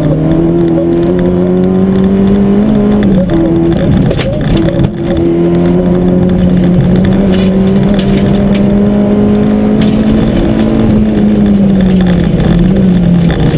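Peugeot 205 GTI rally car's four-cylinder engine heard from inside the cabin, pulling hard at high, fairly steady revs. The revs dip briefly a couple of times about three to five seconds in, with a few sharp knocks. Near the end the engine note falls as the car slows.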